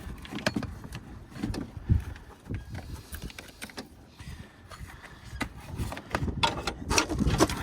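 Irregular light clicks and knocks as vehicle battery cables and clamps are handled and connected, with several sharp knocks close together near the end.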